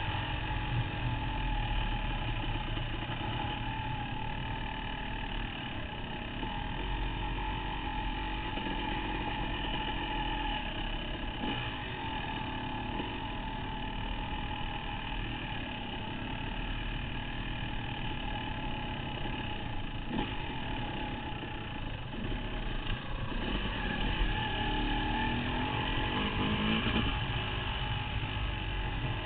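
Off-road dirt bike engine running steadily under way on a trail, heard from the rider's helmet, its pitch rising and falling with the throttle in the last third.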